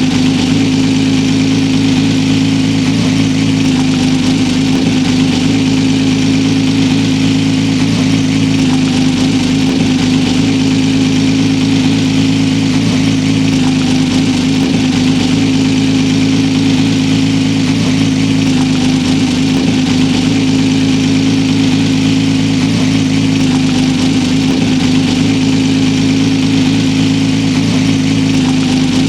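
Honda CBX1000's air-cooled inline-six engine idling steadily through a Pipemasters aftermarket exhaust, its top end freshly rebuilt.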